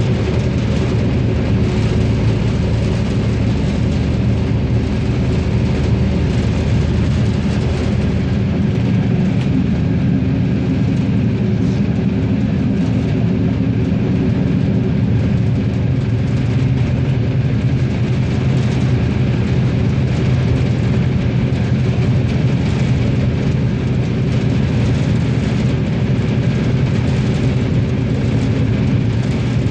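RegioSprinter diesel railcar under way, its engine running with a steady drone over continuous wheel and rail running noise.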